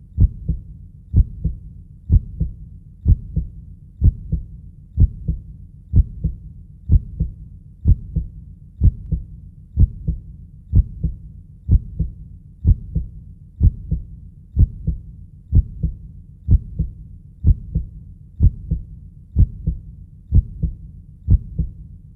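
Heartbeat sound effect: a low double thump repeating steadily about once a second.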